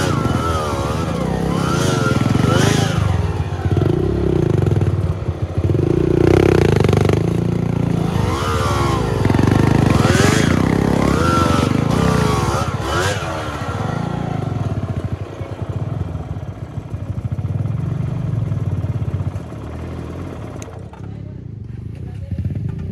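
Dirt bike engine revving repeatedly, its pitch rising and falling again and again as the throttle is worked, then settling to a lower, quieter run near the end.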